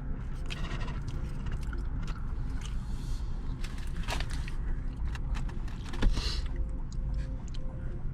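Close-up chewing of crunchy pizza crust, with irregular crackling clicks and a louder crunch about six seconds in.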